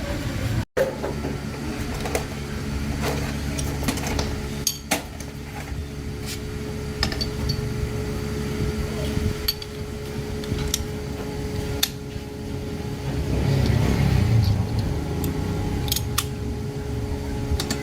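Scattered metal clinks and taps of tools being handled, over a steady mechanical hum.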